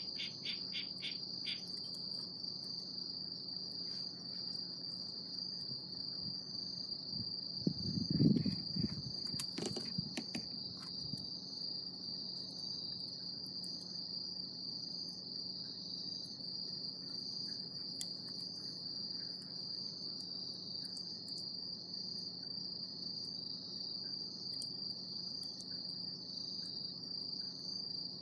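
Insects chirping steadily in a continuous high, pulsing trill. A brief low thump or rustle about eight seconds in, followed by a few clicks.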